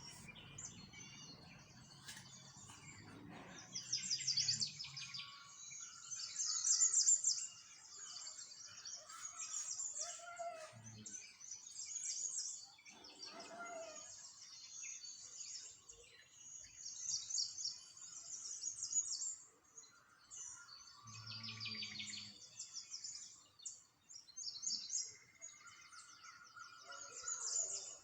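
Small songbirds chirping and twittering in a busy chorus of rapid, high trills that come in clusters and overlap.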